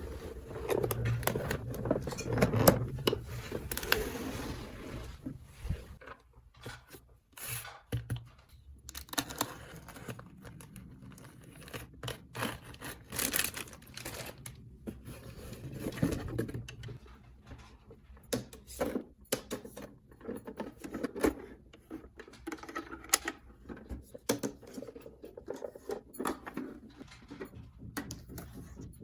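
Small toys and their packaging being handled: irregular clicks, taps and scrapes, with a stretch of rustling and tearing in the first few seconds.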